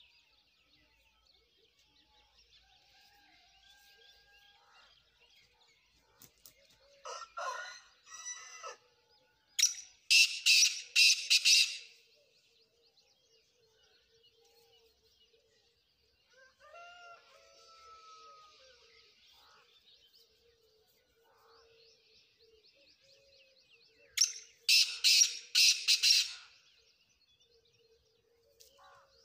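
Black francolin calling: bouts of about five or six loud, harsh notes in quick succession, about ten seconds in and again about twenty-five seconds in, with a quieter call a little before the first. Faint twittering of other birds runs beneath.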